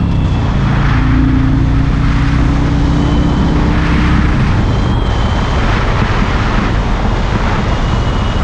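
Harley-Davidson Road King V-twin engine running under way, its note climbing slowly as it pulls for the first few seconds, then sinking into steady road and wind rush for the rest.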